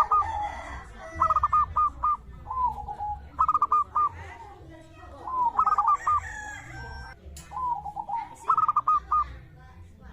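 Zebra dove (perkutut) cooing, used as a lure call: repeated phrases of three or four quick, clipped notes followed by lower trailing coos, recurring every second or two.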